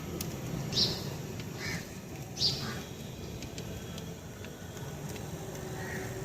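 Bird chirping outdoors: two short, high chirps about two seconds apart, each followed by a softer, lower note, over a steady low background rumble.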